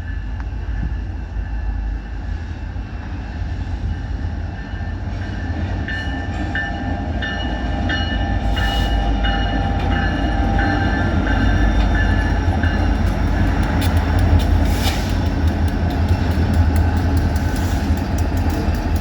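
Freight train hauled by four EMD diesel locomotives passing close by: a deep diesel rumble that grows louder as the locomotives come through. A grade-crossing bell rings about twice a second through the first half, and wheel clicks come late on.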